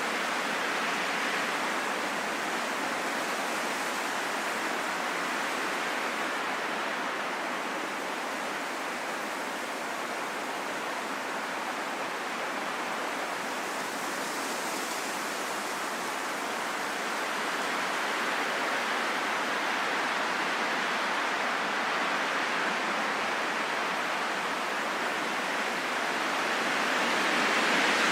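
Strong wind blowing in a steady rushing hiss that slowly swells and eases, growing louder near the end.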